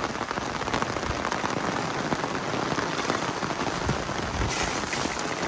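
Torrential rain falling relentlessly: a steady, dense hiss of rain with individual drops striking close by.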